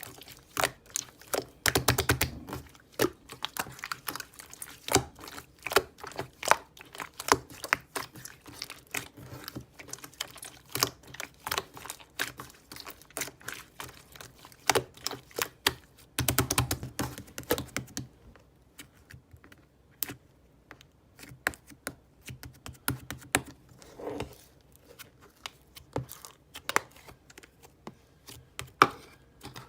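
Slime being pressed and poked by hand, making rapid crisp clicks and pops. There are two denser squishing stretches, about two seconds in and around sixteen seconds, and the clicks thin out for a while after that.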